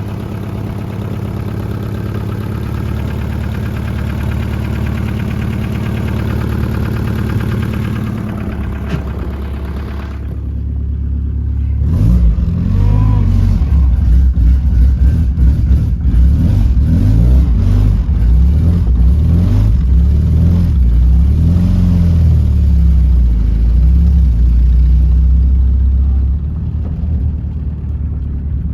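Toyota Celica engine running on a test drive: steady at first, then from about twelve seconds in louder, with the revs rising and falling repeatedly as the car accelerates, along with scattered knocks.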